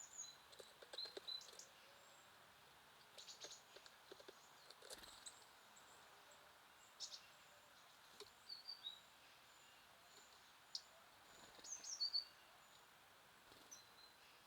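Small songbirds calling faintly with short, high chirps and brief whistled notes, scattered irregularly, along with a few soft clicks.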